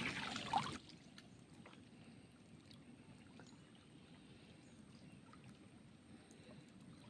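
A loud splash of water in the first second, then faint, steady sloshing with small wet clicks as a drag net is pulled by hand through shallow, thick river mud.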